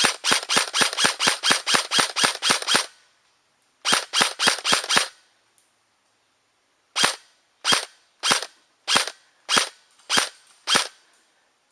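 Airsoft gun firing: a fast string of about sixteen shots, a shorter string of about six, then seven single shots spaced a little over half a second apart.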